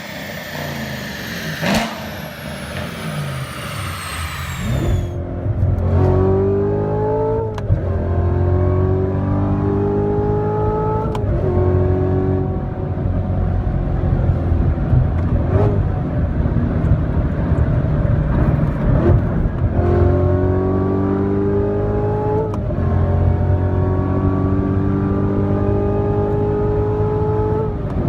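C7 Corvette V8 accelerating hard through the gears, its engine note climbing and dropping back at each upshift, over and over. The first few seconds are a rushing, hissy noise before the engine comes to the fore.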